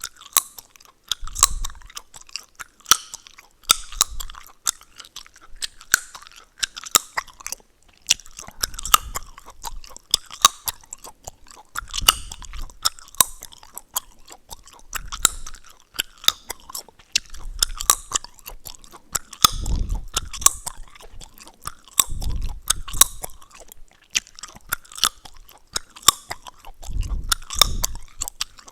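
Close-miked gum chewing: wet, sticky smacks with sharp crackling and snapping clicks, along with soft jaw thuds every second or so.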